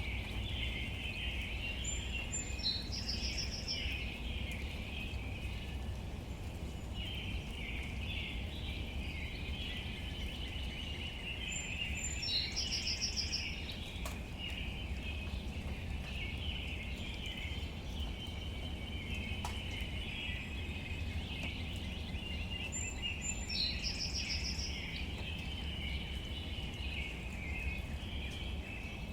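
Steady outdoor nature ambience: a continuous high-pitched textured hiss over a low rumble. A short bird call ending in a quick trill comes three times at even intervals of about ten seconds.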